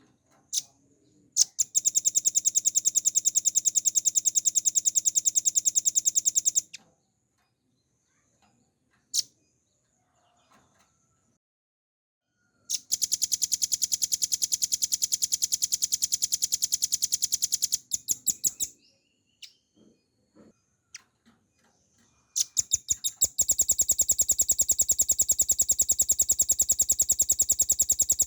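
Velvet-fronted nuthatch singing: three long, fast, even trills of rapidly repeated high notes, each lasting about five seconds, with a few single short notes in the gaps between them.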